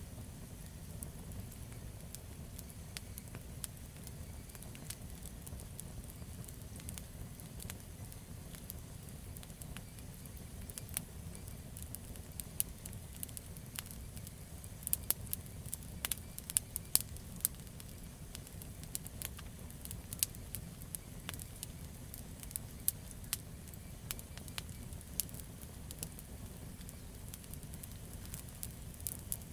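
Wood campfire burning: a steady low rumble of flames with irregular sharp crackles and pops from the burning logs, the pops coming thickest about halfway through.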